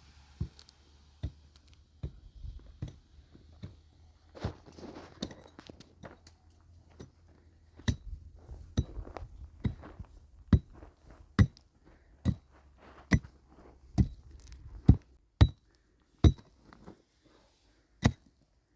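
Hammer blows, with scattered lighter knocks at first and then a steady run of strong strikes about one a second from about eight seconds in.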